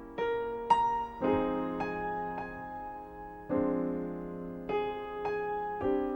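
Solo piano playing slow chords and single notes, each struck and left to ring before the next, about once every half second to second, with no voice.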